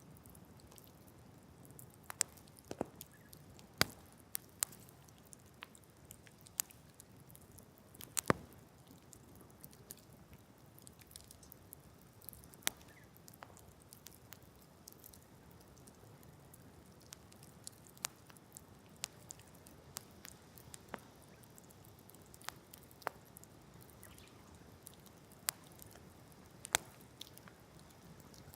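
Wood campfire crackling: irregular sharp pops and snaps over a faint low hiss, with a louder snap about eight seconds in.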